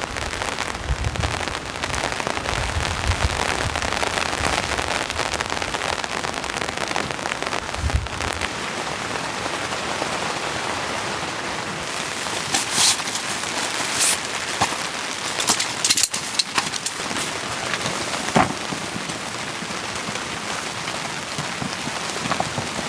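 Heavy rain falling steadily on a tent, a dense even patter. A few sharp clicks and knocks stand out over it in the second half.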